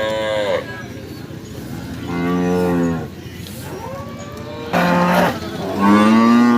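Cattle mooing: four separate moos, each bending up and then down in pitch. The first is higher-pitched, and the last is the longest and loudest.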